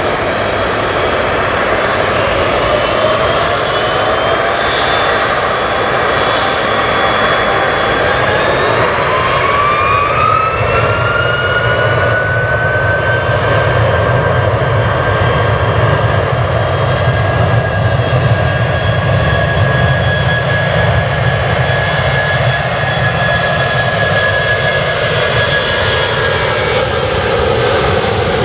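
Jet airliner engines on take-off power: a loud steady roar with a whine that climbs in pitch as the engines spool up, holds steady, then drops in pitch near the end as the aircraft passes.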